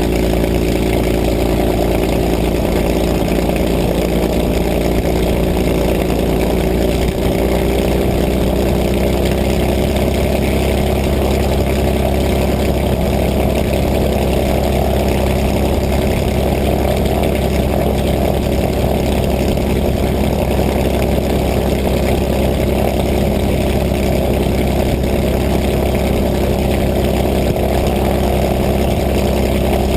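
An engine running steadily at a constant low speed, its pitch easing down slightly at the start.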